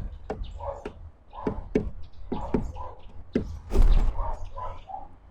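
Birds at a bird feeder: irregular sharp taps and knocks mixed with short calls, with a heavier thump a little before four seconds in.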